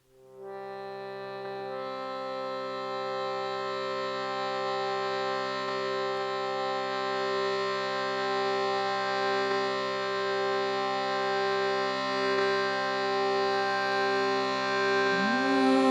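A sustained instrumental drone, several notes held together without change, with a reedy organ-like tone. It fades in at the start and swells slowly. Near the end a voice begins to sing, sliding up into its note.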